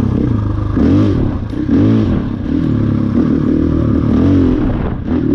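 KTM 500 EXC's single-cylinder four-stroke engine under load on a trail ride, its revs rising and falling about four times as the throttle is opened and rolled off.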